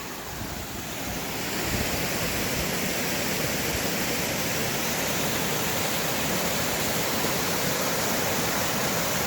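Steady rush of water from a waterfall and its creek in full flow, growing louder over the first second or two and then holding even.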